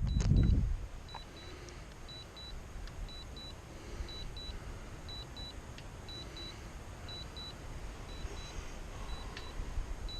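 A drone remote controller beeping in short pairs about once a second, the alert it sounds while the drone flies its automatic return-to-home. Wind rumbles on the microphone, loudest for the first second.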